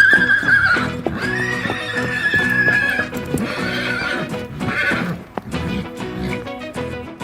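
Horses neighing: a whinny that ends early, a long, steady call starting about a second in and lasting nearly two seconds, then two shorter calls past the middle, with hoofbeats clopping over background music.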